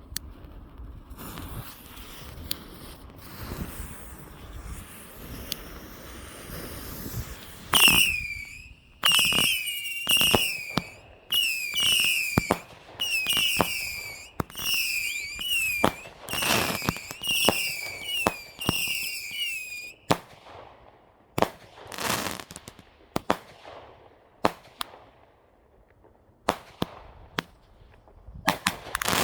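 Consumer firework cake firing. A steady crackle for the first several seconds, then a quick run of about a dozen shots, each a bang followed by a short falling whistle, then scattered single bangs and cracks.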